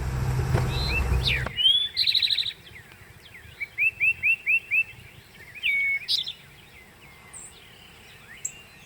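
Several songbirds singing, with whistled notes, trills and a run of five quick repeated calls. A low rumble, like wind on the microphone, runs under the first second and a half and then stops.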